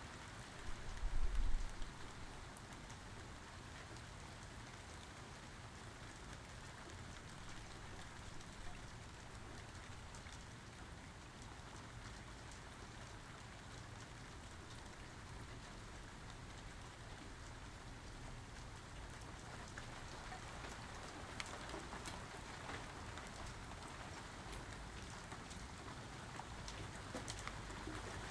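Steady rain falling, with individual drops ticking close by, more of them near the end. About a second in there is a brief low rumble, the loudest sound here.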